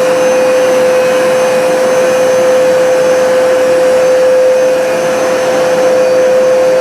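Hoover Smartwash carpet cleaner running with a steady high motor hum over the rush of suction air, on a dry pass that is sucking water back up out of the rug.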